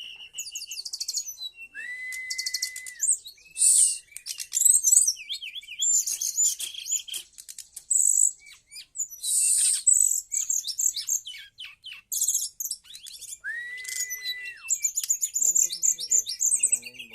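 Brown-chested jungle flycatcher (SRDC) singing a varied, continuous song of fast high trills, chatters and twitters. Twice, at about two seconds and about thirteen seconds in, it gives a long clear whistle that slides up and then holds level.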